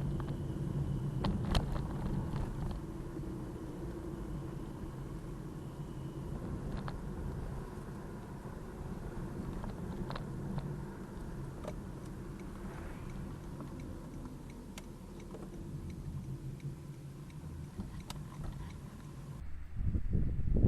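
Car engine and road noise heard from inside a moving car, a steady low hum with a few faint clicks and rattles. Near the end the sound changes to a few low thumps.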